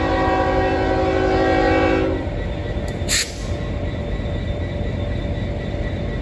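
Norfolk Southern locomotive's multi-chime air horn sounding one sustained chord that cuts off about two seconds in: a horn show given in answer to a railfan's sign. The train's low rumble runs underneath, with a brief sharp noise about three seconds in.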